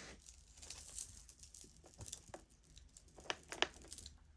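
Faint rustling and light clicks of costume jewelry and its packaging being handled.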